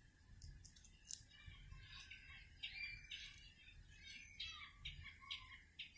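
Near silence with faint bird chirps, short notes that come in quick runs from about two seconds in, and a few soft clicks.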